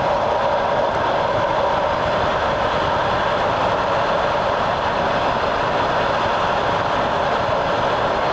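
Steady running noise of a moving train, its wheels rolling on the rails, heard from on board.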